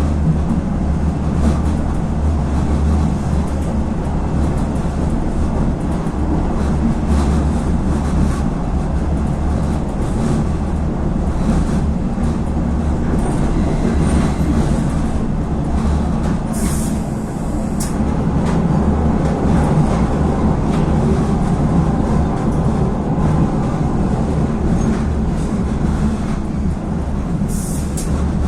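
Regionova diesel railcar running along the line, heard from on board: a steady low drone with irregular clicks of the wheels over rail joints. Two short hisses come, one about halfway through and one near the end.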